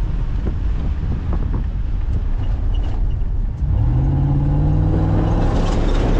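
A car driving over rough ground: a low rumble with scattered knocks, then about four seconds in the engine revs up, its pitch rising slowly and the sound getting louder.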